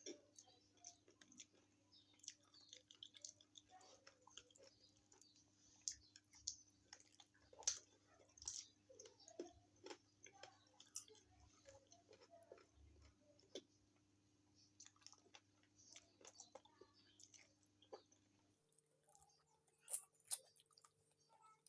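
Close-up eating sounds of a person chewing and biting cooked chicken feet: irregular small clicks and wet mouth smacks, with a few sharper bites standing out.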